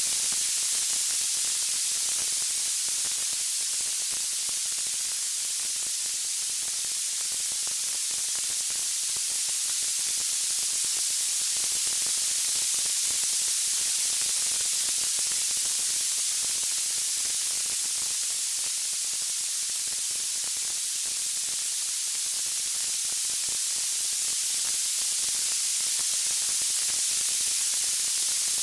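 Steady high-pitched hiss of white noise, with no distinct crackles or pops, slowly swelling and ebbing in loudness.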